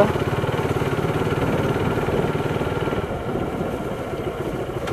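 Motorcycle engine running at low, steady revs with an even, rapid pulse, easing off a little past the middle.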